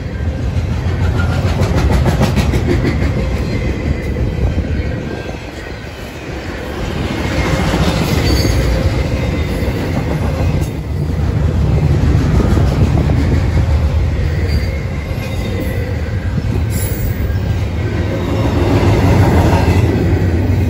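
Double-stack intermodal container train rolling past at close range: a loud, steady rumble of steel wheels on the rails that swells and eases as the well cars go by, with stretches of rapid wheel clatter.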